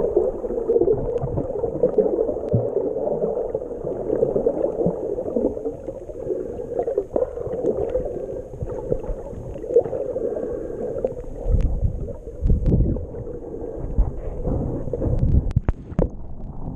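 Jet ski engine running with water gurgling and churning around the craft, with irregular low thumps in the last few seconds.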